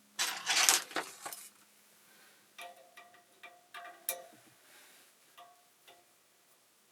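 Metal accessory parts and their packaging being handled: a loud rustling scrape, then a run of light metallic clinks that ring briefly.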